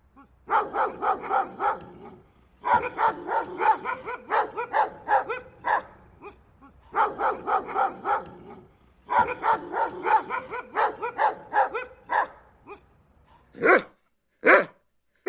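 Dog barking in quick runs of about four barks a second, broken by short pauses, then two single louder barks near the end.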